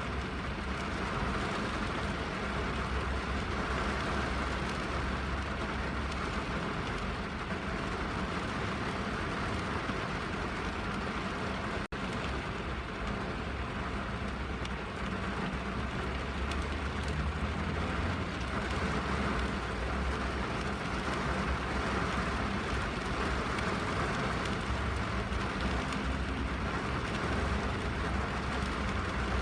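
Steady rain drumming on a car's roof and windows, heard from inside the cabin, with a deep low rumble underneath. The sound drops out for an instant about twelve seconds in.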